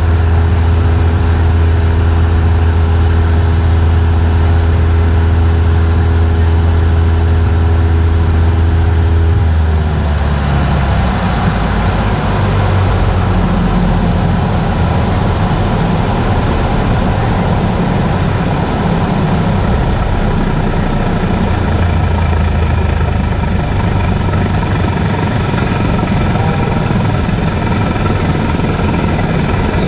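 Cessna 172 single piston engine and propeller running with a steady drone; about ten seconds in the steady pitched hum drops away, leaving a rougher rumble mixed with airflow noise.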